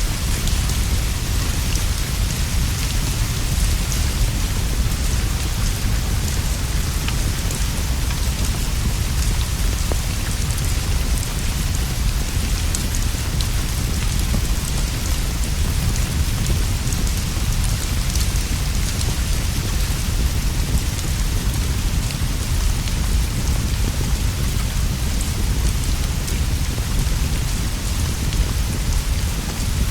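Steady, even rainfall with a constant deep rumble underneath and a few faint scattered ticks.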